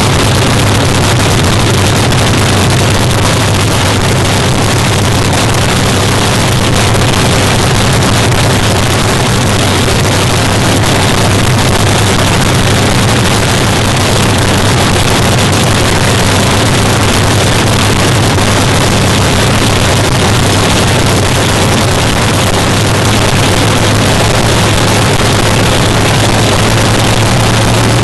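Engine of a 1949 Fiat fuel altered drag car running steadily and loud through open exhaust pipes, holding an even idle with no revving.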